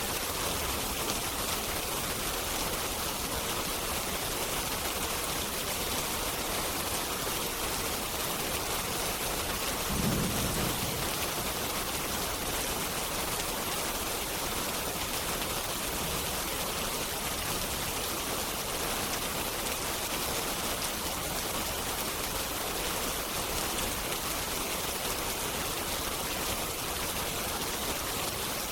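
Steady rain falling as an even hiss, with a short low rumble of distant thunder about ten seconds in.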